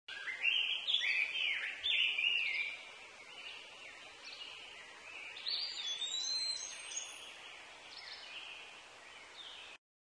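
Wild birds singing: repeated chirps and short whistled phrases over a faint steady hiss, loudest in the first few seconds. The sound cuts off abruptly just before the end.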